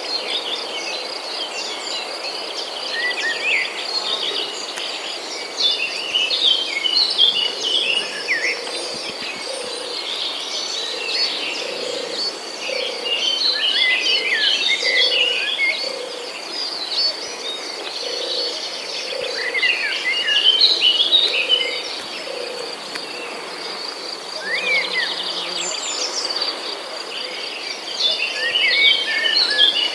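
Several birds chirping and singing in clusters over a steady high-pitched insect trill, with a low call repeating about once a second through the middle.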